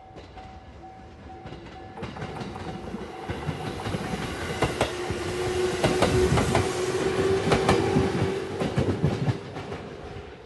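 A JR 213-series electric train, the La Malle de Bois tourist train, passing close by, its wheels clicking rhythmically over the rail joints. It gets louder to a peak in the middle and falls away near the end, with a level crossing bell ringing in the background.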